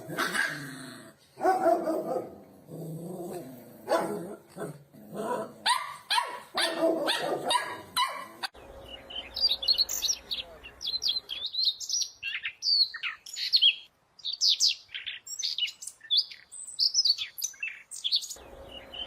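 A dog barking in short pitched calls for about eight seconds, then a small bird chirping rapidly in quick high notes.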